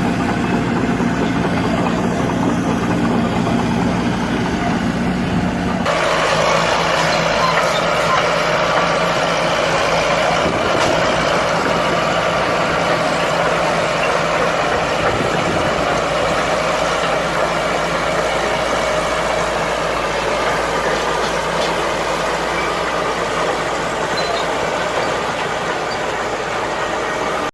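Bulldozer's diesel engine running steadily. About six seconds in the sound changes suddenly: a low hum gives way to a brighter, harsher mechanical noise.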